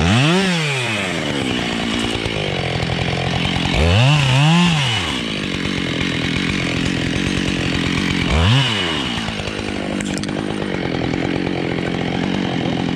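Husqvarna 572 XPG two-stroke chainsaw running hard through beech wood. The engine note climbs and drops three times, near the start, about four seconds in and near the middle.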